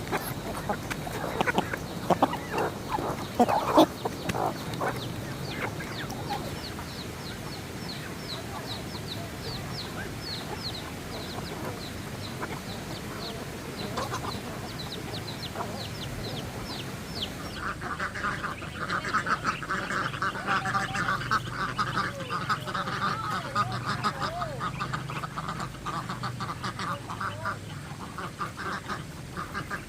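A flock of ducks quacking, thickest through the second half. Before that comes a long run of quick, high, falling chirps, and a few knocks in the first seconds.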